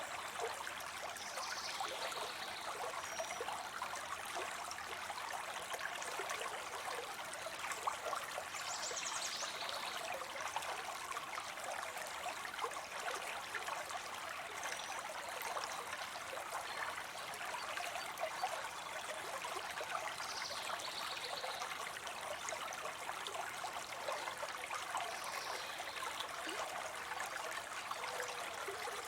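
Water spilling into a pond: a steady splashing, trickling rush, with a few short high chirps now and then.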